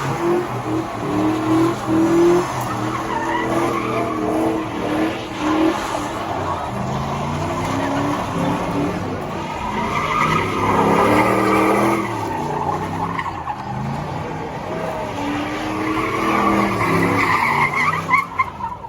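A vehicle engine revving hard, its pitch rising and falling again and again, with tyres squealing as in a burnout.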